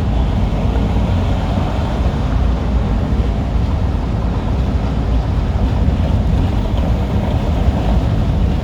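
Semi truck on the move: steady engine and road rumble, heaviest in the low end, with no changes or separate knocks.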